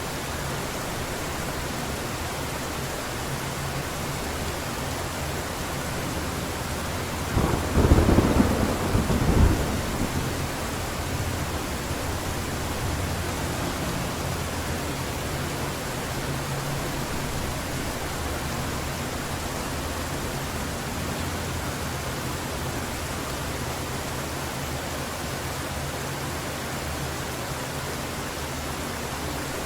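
Heavy rain falling steadily, with a single thunderclap about seven seconds in that cracks and rumbles for two or three seconds before dying away under the rain.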